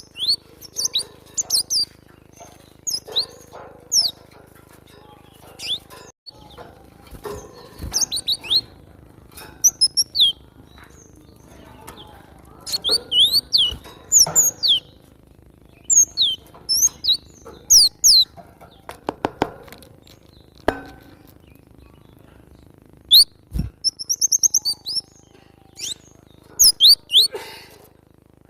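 Cinereous tit (glatik batu) singing: sharp, high, downward-sliding chirps in quick groups of two to four, broken by short pauses, over a faint low hum.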